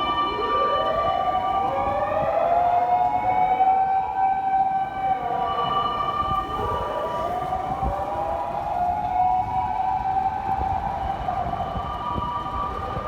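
Japanese emergency vehicle sirens: a wailing siren that rises and slowly falls, twice, over a second siren that switches between two steady tones.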